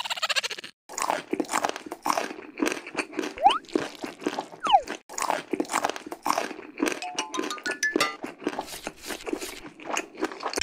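Rapid, continuous crunching of crisp food being bitten and chewed, mukbang ASMR style. Light music plays under it, with a couple of brief sliding tones and a short rising run of notes about seven seconds in.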